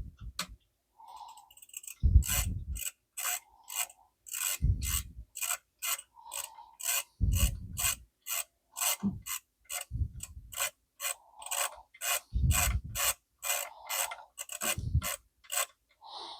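Chicago typewriter's ribbon mechanism ratcheting as the ribbon is wound from spool to spool, a sharp click about twice a second with a low thump every few seconds.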